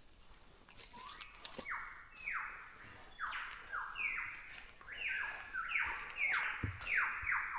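A bird calling in a run of harsh, downward-sliding notes that come faster toward the end.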